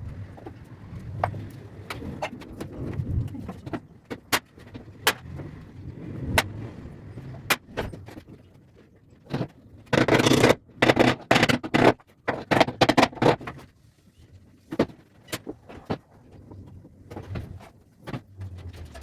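Workshop handling noises: scattered sharp knocks and clicks, with a louder, rough stretch of clattering about ten seconds in that lasts around three seconds.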